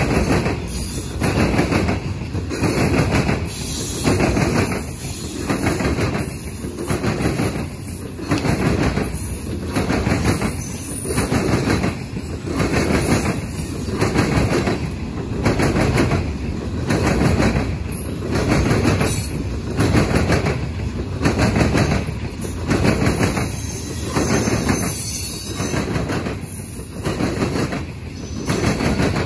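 Loaded coal hopper cars rolling past, their steel wheels clacking over rail joints about once a second under a steady rumble, with a thin high wheel squeal now and then.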